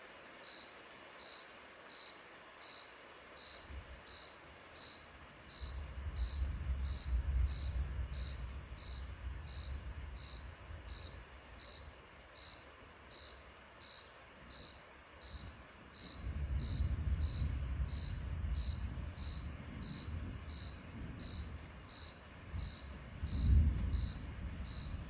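Distant thunder rumbling low in two long rolls, the first starting about four seconds in and the second about sixteen seconds in, swelling near the end. A steady series of short high-pitched pips, about one and a half a second, runs underneath.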